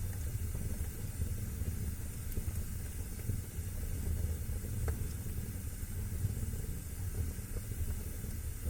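Wood fire burning in a fireplace: a steady low rumble and hiss with a few faint crackles, the clearest about five seconds in.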